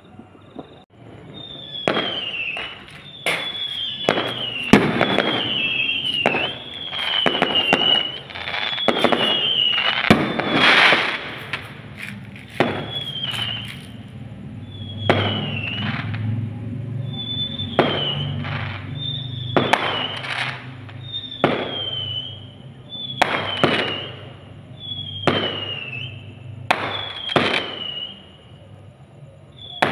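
Fireworks going off in quick succession, a sharp bang every second or two, most followed by a short falling whistle.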